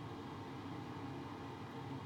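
Steady low hum and hiss of background noise, with no distinct sounds.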